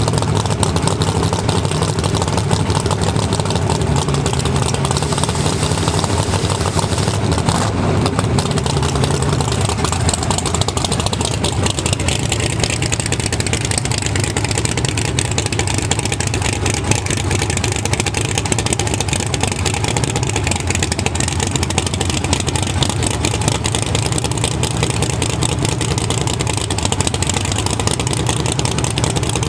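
Loud drag-racing engine running steadily at idle, with no hard revving.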